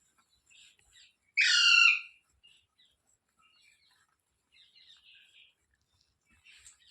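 A parrot giving one loud, harsh call lasting about half a second, about a second and a half in, with faint soft chirps around it.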